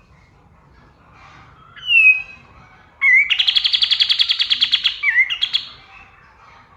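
Pied triller (kapas tembak) singing: a loud falling whistle, then a rapid, even trill of about a dozen notes a second lasting roughly two seconds, ending in a few short notes, over faint chatter from other birds.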